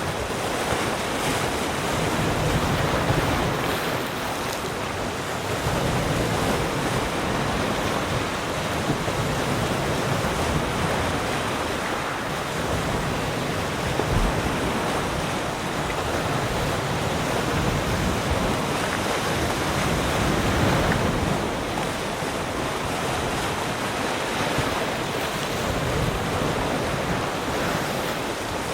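Sea surf: waves breaking and washing onto the shore in a continuous rush that swells and eases every few seconds.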